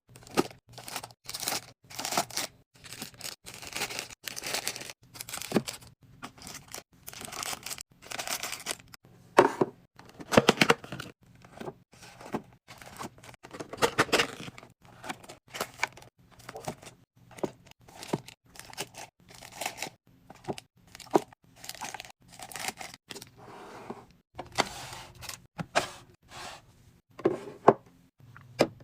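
Plastic packaging crinkling and tearing as groceries are unwrapped and handled, with irregular rustles and small knocks several times a second.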